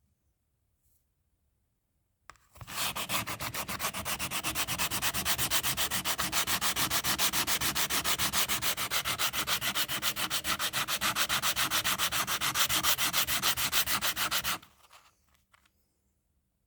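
Bicycle brake pad being sanded against sandpaper to clean its braking surface: rapid, even back-and-forth scraping strokes that start about two seconds in and run for about twelve seconds, then stop, followed by a few faint scrapes.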